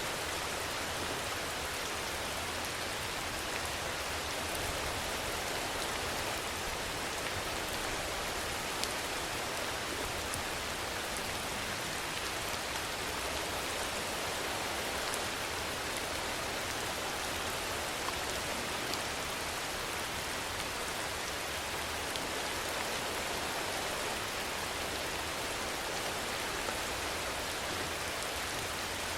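Steady rainfall: an even, unbroken hiss with a few sharper drop ticks here and there.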